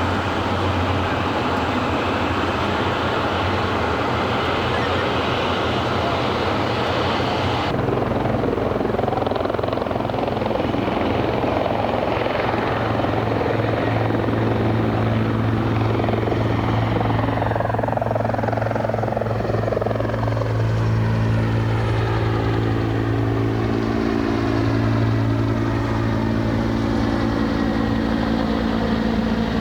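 Helicopter running loud and steady, rotor and turbine. About eight seconds in the sound shifts abruptly, and over the second half a whine falls slowly in pitch.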